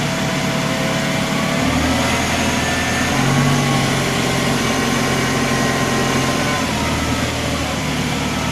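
Antonio Carraro TR7600 Infinity tractor's 75 hp Kohler common-rail diesel engine running as the tractor drives, its note shifting in pitch a few times as the hydrostatic transmission changes range on the move.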